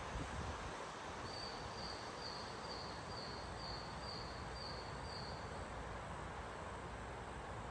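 Steady rush of gusty storm wind, with a high chirp repeating about eight times at an even pace, about two a second, that stops a little past halfway.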